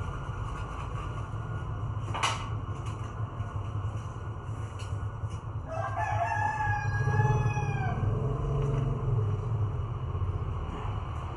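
A rooster crows once, a drawn-out call that rises, holds and drops away, about six seconds in. A steady low hum runs underneath, with a sharp click about two seconds in.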